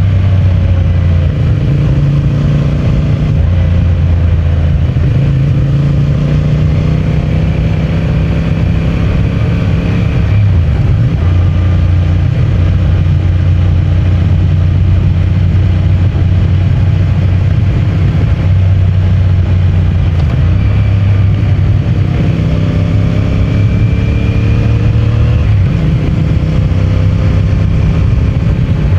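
CFMOTO 450MT motorcycle's parallel-twin engine and stock exhaust running under way. The engine note falls over the first few seconds, holds fairly steady, then climbs again about two-thirds of the way through as the throttle opens.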